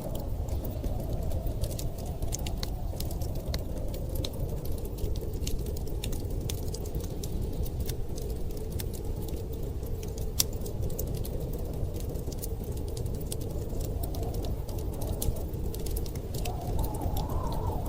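Wood fire crackling with frequent sharp pops and ticks, over a steady low rumble of storm wind that swells briefly near the end.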